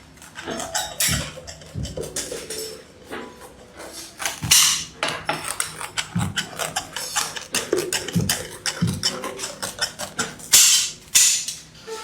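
Irregular knocks, taps and clicks of objects being handled, some with a short ring, with a few brief low tones between them.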